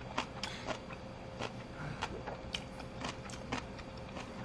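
Close-up chewing of crunchy bossam kimchi: irregular crisp crunches, several a second. A faint steady hum runs behind them.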